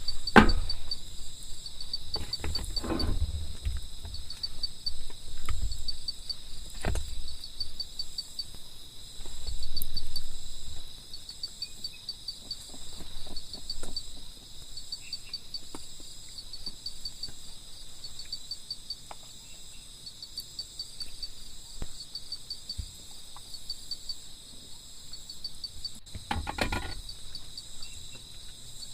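Forest insects chirping in a steady high-pitched chorus with a fast even pulse. A few scattered knocks and thumps sound over it, a couple near the start, one about a quarter of the way through and one near the end.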